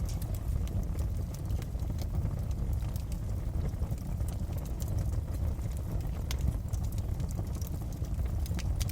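Wood fire crackling in a fireplace: scattered sharp pops and snaps over a steady low rumble of the burning, with a couple of louder pops in the second half.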